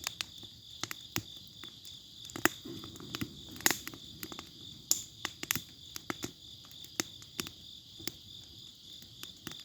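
Wood fire crackling, with irregular sharp pops and snaps, the loudest a little over a third of the way in, over a low steady rustle of the burning. A steady high trill runs behind it.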